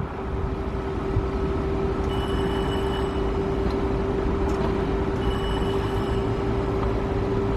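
A stationary PATCO Budd-built rapid-transit train humming steadily at one low pitch over wind noise on the microphone. A high electronic beep sounds twice, each about a second long, about three seconds apart.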